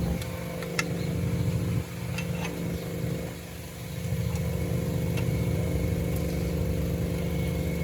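Car engine running steadily, with a few light clicks; it dips in level briefly twice, near the start and midway.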